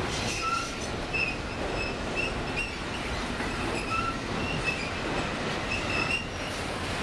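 Double-stack intermodal freight cars rolling past, steel wheels running on the rails with a steady rumble and short high-pitched wheel squeals that recur every second or so.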